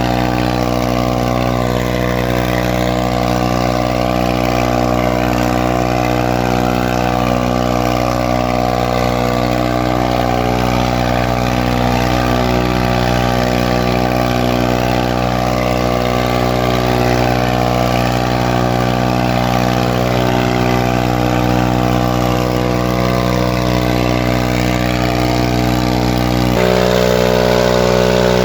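Farmtrac 45 tractor's three-cylinder diesel engine running steadily at constant speed. Near the end its note shifts and it gets slightly louder as the engine speed changes.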